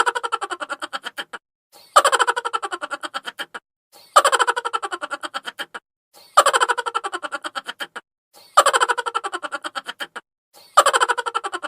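High-pitched, sped-up 'chipmunk' laugh sound effect looping: a rapid 'ha-ha-ha' run of about ten pulses a second that starts loud and falls in pitch as it fades. It repeats about every two seconds, six times, with a short gap between laughs.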